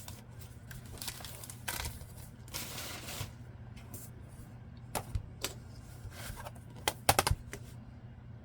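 Paper and craft tools being handled on a work table: short rustles of paper, then a few sharp clicks and taps, with a quick cluster of three or four clicks near the end, over a steady low hum.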